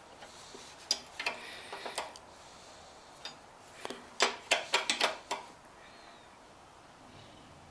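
Hard clicks and knocks of hand tools and small mower parts being handled: a few scattered ones, then a quick run of about six in the middle.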